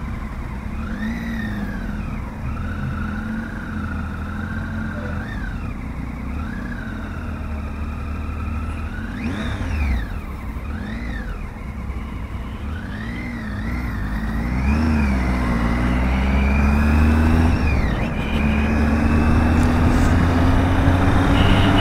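Triumph Tiger 800 XRx's three-cylinder engine revving up and down in pitch as it pulls through the gears, then climbing steadily in pitch and loudness over the last several seconds as the motorcycle gathers speed, with rising wind and road noise.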